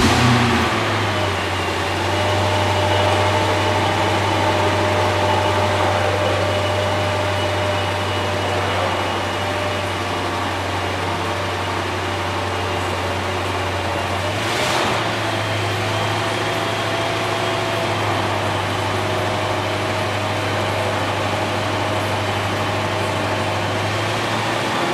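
Bentley Mulsanne's 6.75-litre twin-turbo V8 idling steadily, heard at the exhaust, just after a brief louder moment at the start. A short burst of noise about halfway through, after which the idle settles again.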